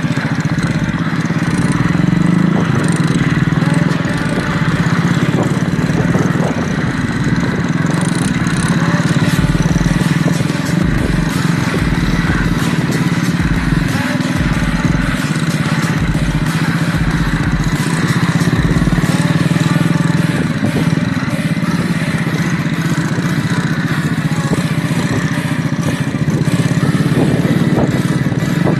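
Motorcycle engine running steadily, with no clear revs.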